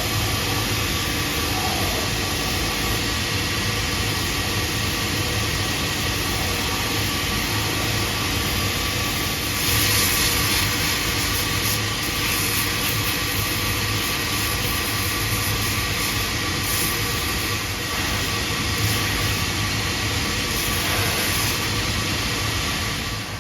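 A shoe-repair workshop machine running steadily with its electric motor, with a brief louder, hissier stretch about ten seconds in as work is pressed against it.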